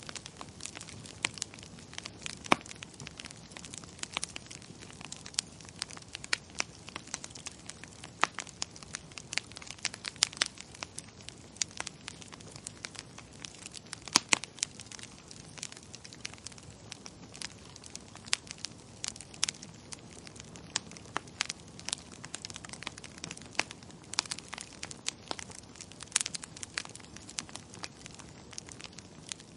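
Wood fire crackling in a fireplace: frequent, irregular sharp pops and snaps over a steady soft hiss.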